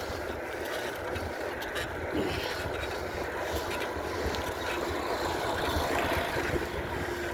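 Wind buffeting the microphone over a steady rolling rumble from a bicycle being ridden uphill. A faint steady hum joins about halfway through.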